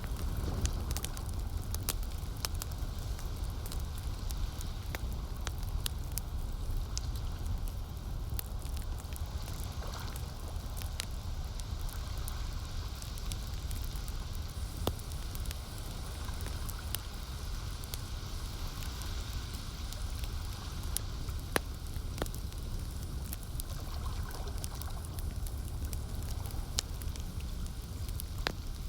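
Campfire crackling, with frequent irregular sharp pops and snaps over a steady low rush.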